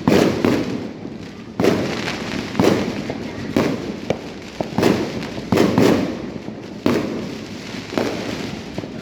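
Neighbourhood fireworks going off: a steady run of loud bangs, about one a second, each trailing off into a rumble before the next.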